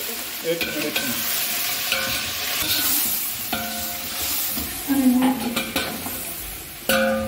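Chicken pieces sizzling in hot oil with browned onions and cumin in a steel pot, being stirred with a metal spatula that scrapes against the pot.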